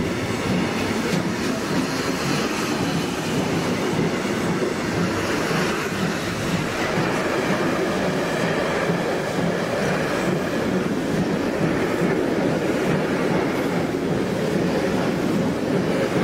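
Steam-hauled passenger train heard from an open coach window: the coach rolling on the rails with a steady rumble as the train leaves the station.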